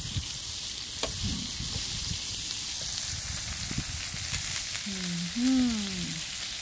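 Brussels sprouts, greens and shrimp sizzling on a hot Presto electric griddle: a steady frying hiss with a few light clicks. About five seconds in, a short voice rises and falls over it.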